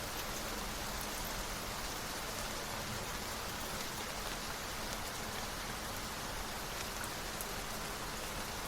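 Steady rain, an even unbroken patter with a few faint drop ticks.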